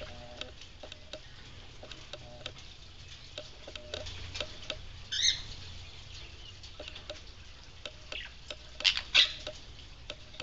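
Small pet parrots (budgies and a sun conure) bathing in a shallow dish of water: light splashing and scattered small clicks and taps. Brief high chirps come about five seconds in and twice near the end.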